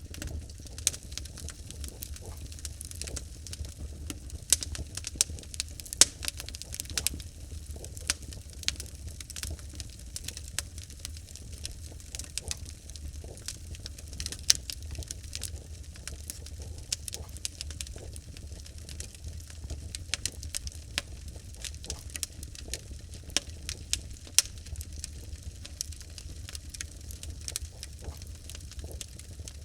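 Wood fire burning in a fireplace: logs crackling and popping in irregular sharp snaps, over a steady low rumble.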